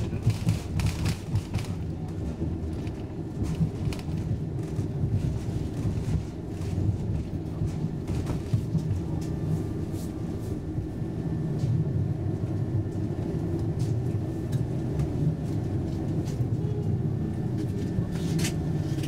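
Rumble of a Roslagsbanan X10p electric commuter train running on the rails, heard inside the carriage, with scattered clicks and rattles. Near the end its low hum drops in pitch as the train slows into a station.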